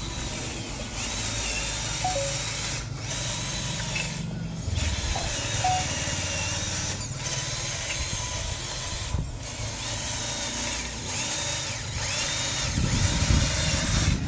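Small electric motors and gearboxes of a radio-controlled model construction vehicle whining, the pitch rising and falling again and again, with a low rumble underneath and a few brief breaks.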